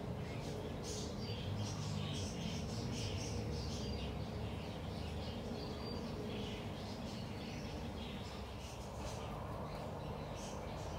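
Small birds chirping in quick, scattered short calls, over a steady low background rumble.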